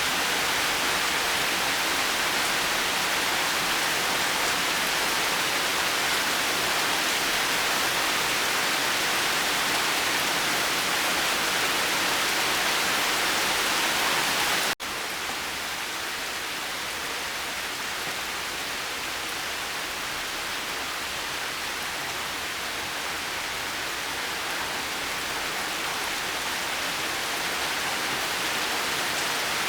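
Steady, heavy rain falling. About halfway through it cuts off abruptly into a slightly quieter rain recording, which slowly grows louder again near the end.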